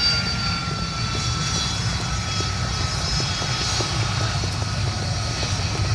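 A fixed-wing aircraft's engine running as the plane flies past, its tone falling slowly in pitch.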